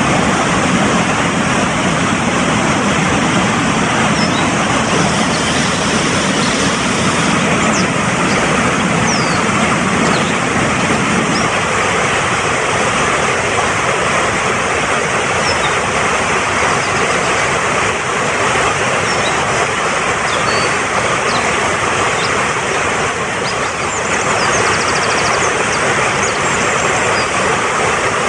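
Fast-flowing mountain stream rushing steadily, its deeper rumble dropping away about eleven seconds in, with faint, brief high bird chirps and whistles now and then.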